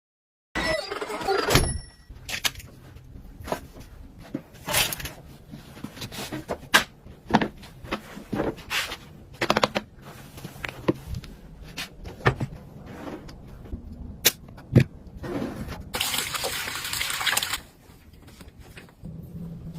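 Household objects being handled, with a string of sharp clicks and knocks, and a rushing hiss like water or a spray for about a second and a half near the end.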